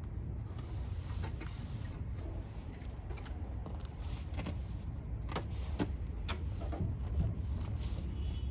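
Scattered light clicks and knocks, about half a dozen, over a low steady rumble.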